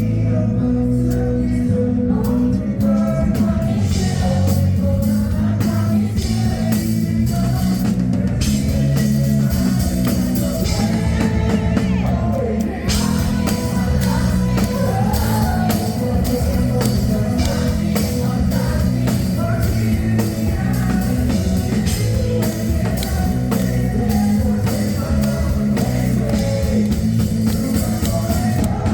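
Live rock band playing a song with a male lead vocal over drum kit, electric guitar and bass, loud and steady throughout.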